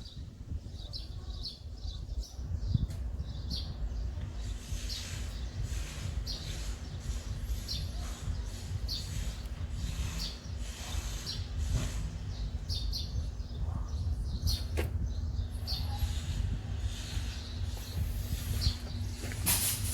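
Small birds chirping, short high calls repeated every second or so, over a steady low rumble.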